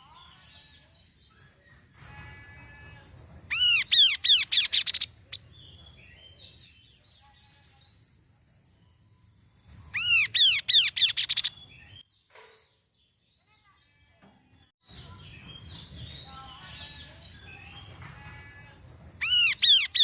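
Kaso-kaso bird singing, a songbird recording played as a lure to set caged birds singing. It gives three loud bursts of rapid, repeated arched whistled notes, with softer chirps between them over a steady high-pitched tone. The sound drops out almost entirely for a few seconds past the middle.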